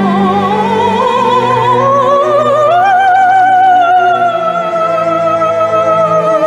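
A female voice singing a wordless operatic vocalise with a wide vibrato, climbing steadily over the first three seconds to a high held note that sinks slightly, over sustained low orchestral notes.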